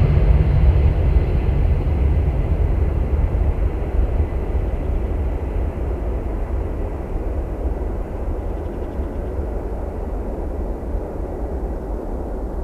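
Airbus A319's CFM56 jet engines, a steady rumbling roar that fades as the airliner draws away, its higher frequencies dying off first.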